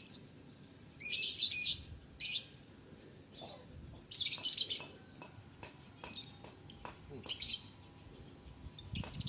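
Lovebird chirping in about five shrill, rapid bursts, with short gaps between them and a few faint ticks in the quieter stretch.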